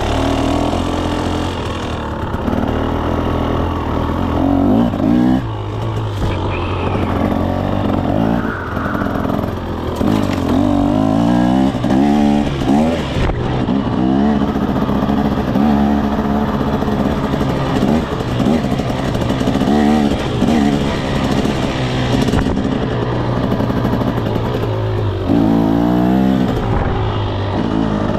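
2024 KTM 300 SX's two-stroke single-cylinder engine under way, its pitch rising and falling again and again as the throttle is opened and closed through repeated gear changes.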